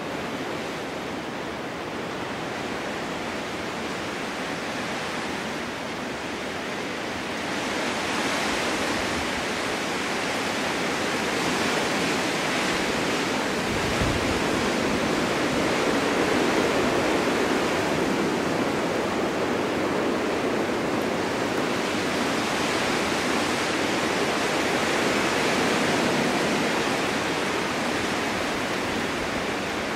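Snowstorm wind blowing through a snow-covered forest: a steady rushing that swells louder about seven seconds in and keeps rising and falling in slow gusts.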